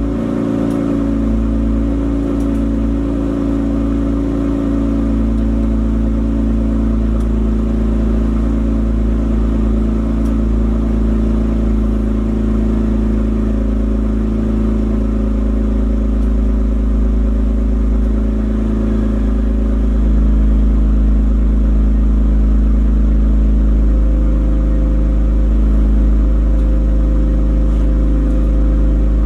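Kia Stinger 3.3T's twin-turbo V6 idling steadily through its exhaust on a cold start. The idle note shifts slightly about two-thirds of the way through and again a few seconds later, the first change a touch louder.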